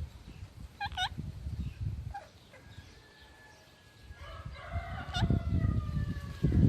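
A bird calling: a couple of short hooked squawks about a second in, then after a lull a long drawn-out call whose pitch slowly falls, with a sharp squawk in the middle of it. Low rumbling noise comes and goes beneath.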